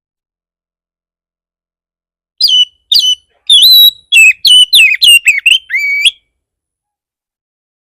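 Oriental magpie-robin (kacer) singing a fast, loud run of sweeping whistled notes for about four seconds, starting a couple of seconds in: an aggressive song used as a lure to provoke other magpie-robins.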